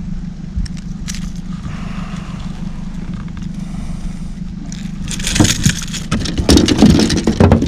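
Boat motor running with a steady low hum, and from about five seconds in a string of loud clattering knocks and scrapes, typical of a landed fish and lure being handled in the boat.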